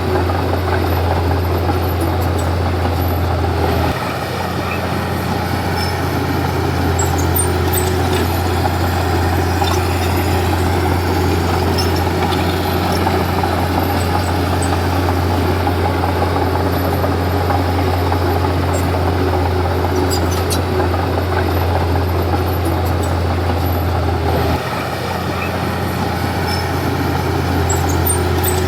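Komatsu D31P bulldozer's diesel engine running steadily under work. Its note shifts and dips in level about four seconds in and again near the end, then builds back up.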